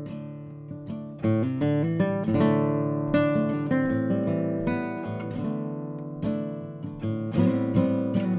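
Acoustic guitar music, plucked and strummed chords ringing and fading between strokes.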